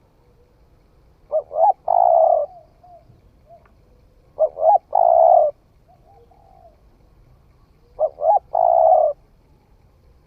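Spotted dove cooing: three phrases about three seconds apart, each two short rising notes followed by a longer burred note, with softer notes between them.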